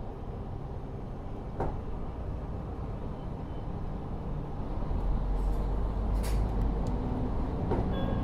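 Interior running sound of a KiHa 40 diesel railcar with its N-DMF13HZB six-cylinder diesel engine. The engine runs steadily, then grows louder and deeper about five seconds in as it takes power. A couple of faint clicks are heard.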